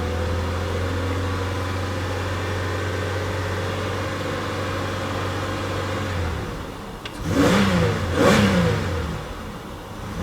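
2006 Buick Rendezvous's 3.5-litre pushrod V6, warmed up, running steadily for about six seconds. The revs then drop and it is blipped twice in quick succession, rising and falling each time.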